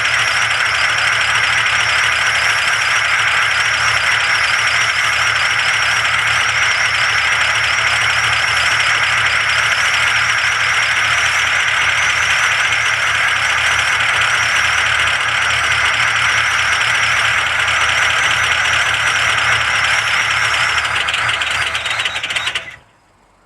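Diesel engine in deep frost running with a loud, steady, fast clatter, which cuts off suddenly near the end.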